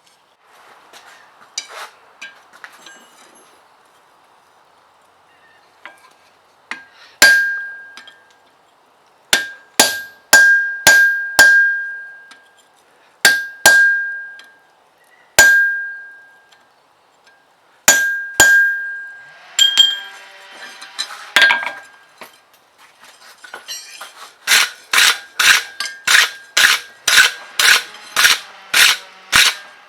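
Hammer blows on a steel anvil while forging, each strike ringing. Single blows a second or two apart come first, then a short scraping sound, then a steady run of about two strikes a second near the end.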